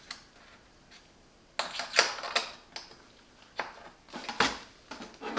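Scattered clicks and light knocks from parts of an espresso machine being handled, with a cluster of them about two seconds in and single ones near the end.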